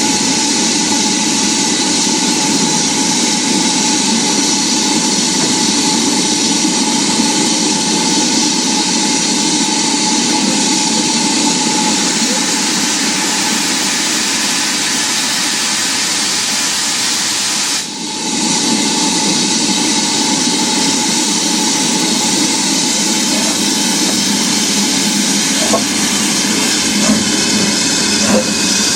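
Steam locomotive giving off a loud, steady hiss of escaping steam. It drops out briefly about eighteen seconds in, then carries on.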